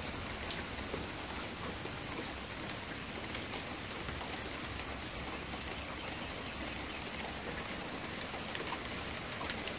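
Steady rain falling on the ground and nearby surfaces, an even hiss with scattered light drips and patters.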